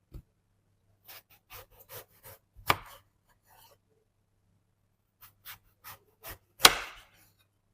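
A string of short, light knocks and taps with pauses between them, about a dozen in all; two are much louder, one a little under three seconds in and one near the end.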